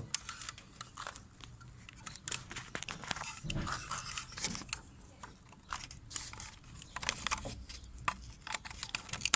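Scattered clicks, taps and plastic crinkling from hands handling the car door's power-window switch and its wiring plug as it is being reconnected.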